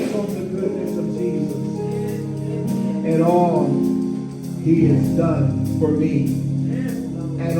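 Gospel music: a sung melody over sustained organ-like chords.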